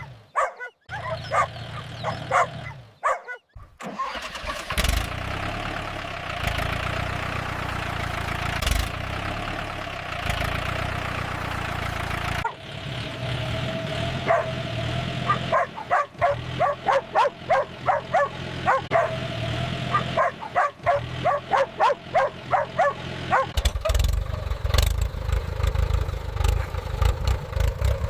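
A tractor engine runs steadily while dogs bark in quick repeated runs. The engine grows louder near the end.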